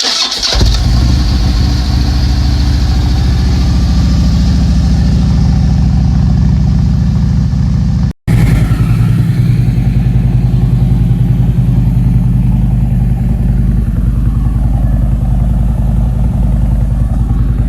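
Harley-Davidson Road King Classic V-twin starting and then idling steadily through aftermarket slip-on mufflers, with a short break in the sound about eight seconds in.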